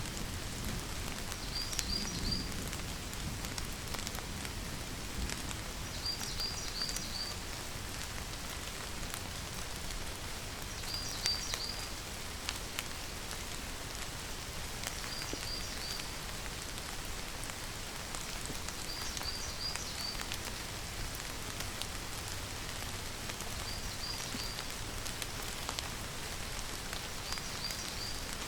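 Steady rain falling, with scattered drops ticking on a surface. Over it a short high chirp of three or four quick notes repeats about every four seconds.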